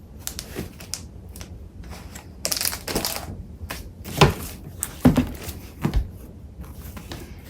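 Paper crafting supplies being rummaged through by hand: quick rustles and crinkles of paper with a few sharper knocks as pieces are moved, the loudest a little past four seconds in.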